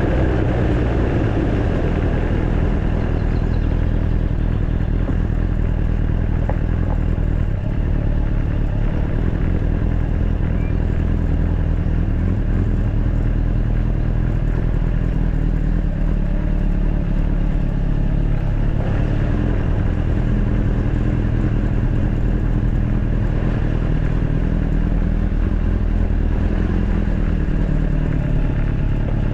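Honda Fireblade's inline-four engine running steadily under way, heard from on board with road and wind noise; the engine note shifts in pitch briefly around the middle and again near the end.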